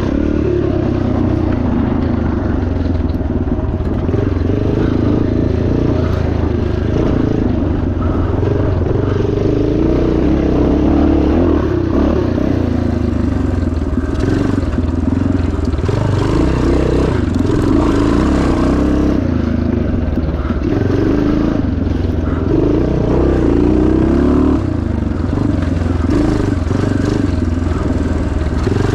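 1977 Yamaha TT500's single-cylinder four-stroke engine running hard under load, its pitch wavering up and down continuously with the throttle.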